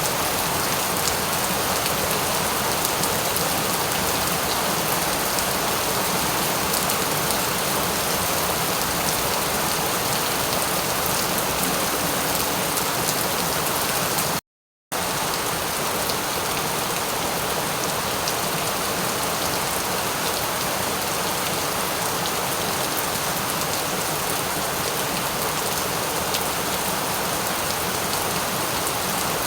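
Steady rain falling on a surface, an even hiss with many small drop ticks in it. The sound cuts out completely for a split second about halfway through, then resumes unchanged.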